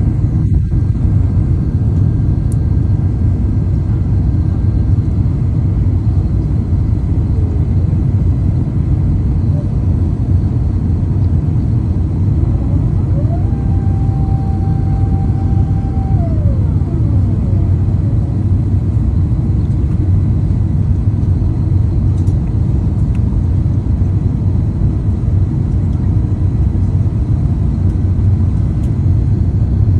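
Airliner's steady low rumble of engines and airflow. Around the middle, a faint whine rises in pitch, holds briefly and falls away.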